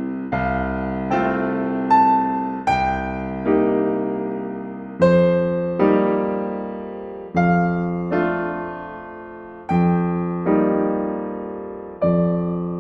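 Slow, gentle solo piano music: chords struck one after another about once a second, each left to ring and fade.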